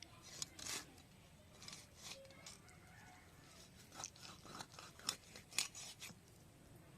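A fish being cut into pieces with a blade: irregular crunching cuts through flesh and bone, coming thickest between about four and six seconds in.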